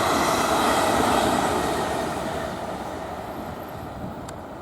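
South Western Railway Class 450 electric multiple units running past on the rails, the steady wheel-and-rail noise fading gradually as the train moves away.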